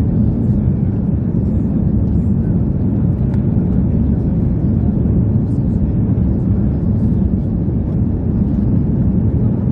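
Steady low rumble of the Airbus A340-300's four CFM56 jet engines, holding level without rising or falling.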